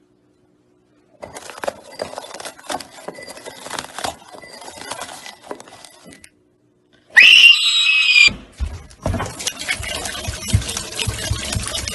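Cartoon eating sounds: irregular crunching and chewing for several seconds. After a short pause, about seven seconds in, a loud high-pitched scream lasts about a second. A dense, loud rushing noise with low thumps then follows.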